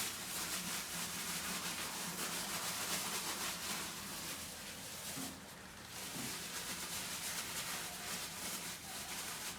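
Cement mortar being rubbed and pressed into the gap around a toilet's base by a hand inside a plastic bag: a continuous rough scraping and rubbing that eases briefly about five and a half seconds in.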